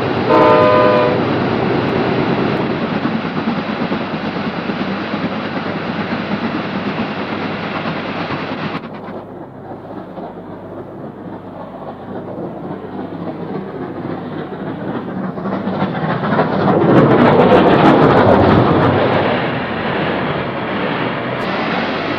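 A train running, with a short chord-like blast of its warning signal about half a second in, then steady running noise on the rails. The sound changes abruptly about nine seconds in and swells loudest between about sixteen and nineteen seconds, as the train passes close.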